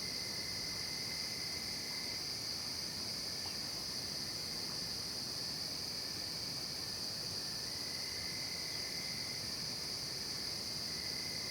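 Night-time chorus of crickets and other insects: a steady, unbroken high trill, with a fainter, lower trill coming and going.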